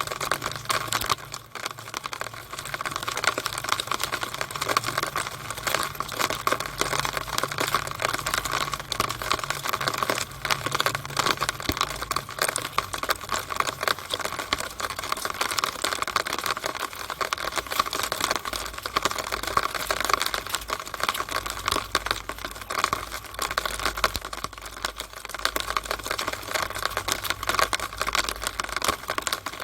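Rainwater running and splashing in a downspout, a dense, fast, even patter of drops and splashes.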